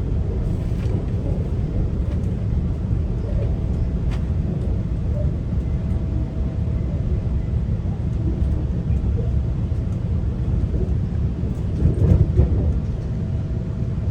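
Steady low rumble of a GO train's bilevel coach running along the track, heard from inside the car, with a faint steady hum over it. It swells briefly about twelve seconds in.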